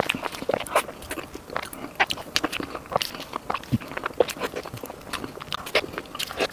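Close-up eating sounds: soft, sticky dessert being bitten and chewed, with irregular wet mouth clicks and smacks several times a second.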